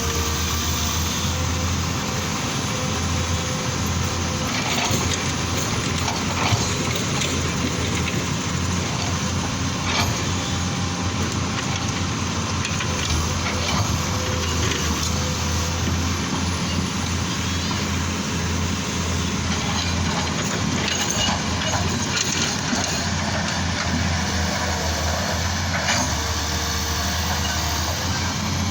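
Heavy diesel engine running steadily with a deep hum, with scattered short knocks and clanks every few seconds.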